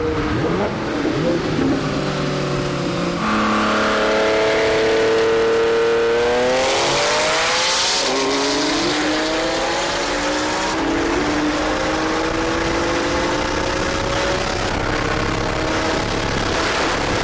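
Twin-turbo supercar engine pulling hard at full throttle, heard from inside a car: the revs climb steeply, drop at an upshift about eight seconds in, then climb again with further upshifts near the middle and late on. A loud rushing noise rises with the engine just before the first shift.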